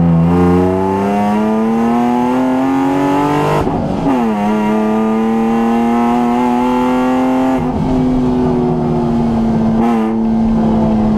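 BMW E36 320i's 2.0-litre straight-six heard from inside the cabin, revving up steadily under full throttle. About three and a half seconds in it shifts up with a sharp drop in pitch, then holds near steady revs, easing briefly twice near the end.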